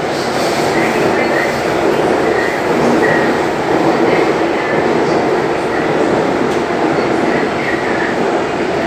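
Bangkok MRT Blue Line metro train running at speed between stations, a loud steady rumble heard inside the carriage, with faint short high squeaks recurring every second or two.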